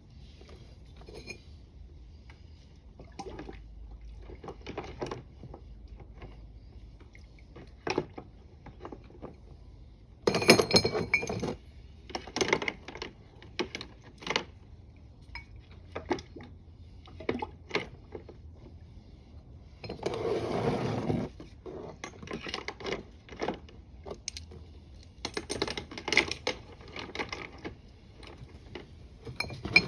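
Stainless steel plates and parts of a Water Ox cell clinking and knocking against each other as they are handled and separated, in irregular short clacks, with two louder rushing bursts of about a second each, roughly ten and twenty seconds in.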